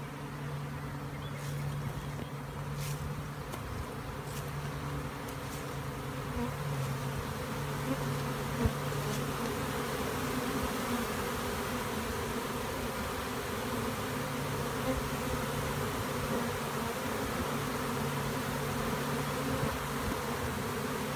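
Honey bee swarm in flight, the steady hum of thousands of bees buzzing in the air as the swarm leaves the tree and returns to its original hive. The hum thickens after about six seconds, and there is one brief knock about nine seconds in.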